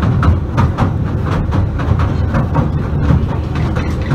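Southend Pier Railway train running along the pier, heard from inside the carriage: a steady low rumble with frequent irregular clicks and rattles.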